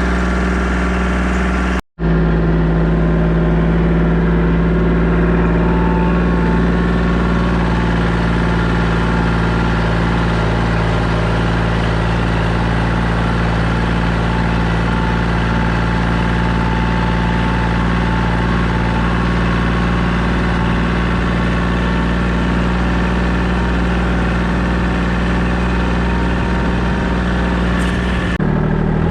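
Compact tractor engine running steadily under work, with a brief dropout about two seconds in and a slight change in its note just before the end.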